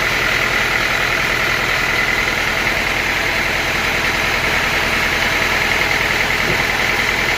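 Sawmill machinery running steadily: an engine-driven drone with a constant higher whine and no break or change.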